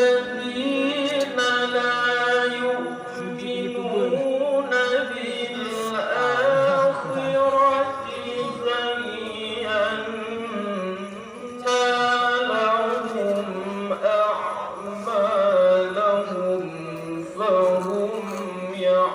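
A qari reciting the Qur'an in melodic tilawah style: one voice holding long, high notes and bending them into ornamented runs.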